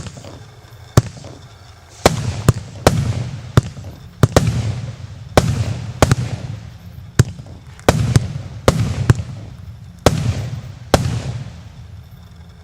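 A 54-shot fan-type fireworks battery (Green Party cake, 1–1.2 inch calibre) firing in quick succession: sharp bangs come one to two a second, each followed by a fading hiss. The shots stop shortly before the end.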